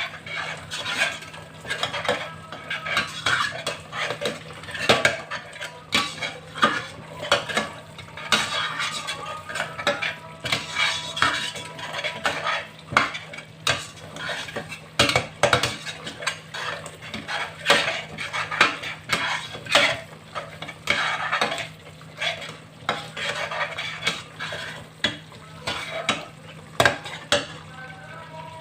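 A utensil stirring and scraping in a pot, with irregular clicks and knocks against its sides, while curry paste and whole spices fry with a light sizzle. A faint steady low hum runs underneath.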